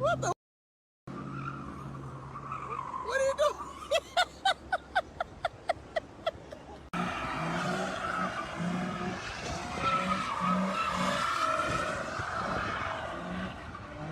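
Car tyres squealing and skidding in a long, wavering screech. Before it comes a quick run of about a dozen short beeps, about three a second.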